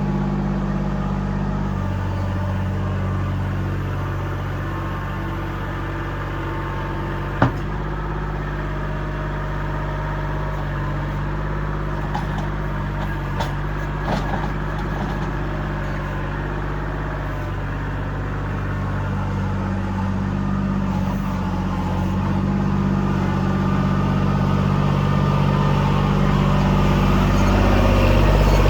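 Kubota L2501 compact tractor's three-cylinder diesel engine running steadily, with one sharp clank about seven seconds in and a few lighter knocks a few seconds later. The engine grows louder over the last few seconds.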